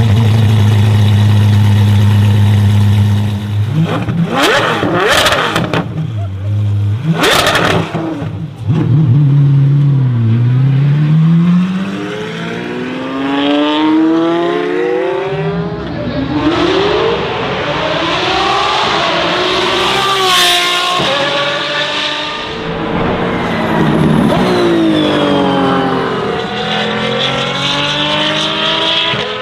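Apollo IE hypercar's naturally aspirated V12 idling at a steady low note, then revved sharply twice. It then accelerates hard several times, the pitch sweeping up and breaking off with gear changes and falling away as the car goes by.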